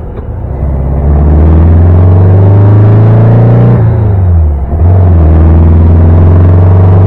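The fuel-injected, high-performance engine and performance exhaust of a custom 1960 VW Beetle, heard from inside the cabin while driving. It runs with a steady drone under load, and the engine note falls away and dips in level twice: just at the start and again about four and a half seconds in.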